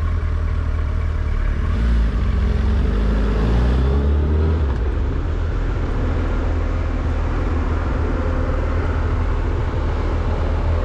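Motorcycle on the road in traffic: steady low wind rumble with engine notes whose pitch climbs a few seconds in and falls again near the end.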